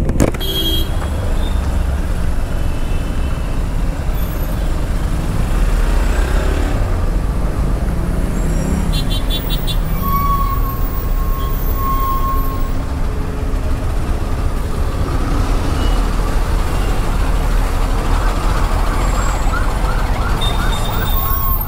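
Hero Xpulse 200 4V's single-cylinder engine running in slow traffic: a steady low rumble mixed with the noise of the vehicles around it. About halfway through a steady horn-like tone sounds twice, and near the end a fast warbling tone repeats several times.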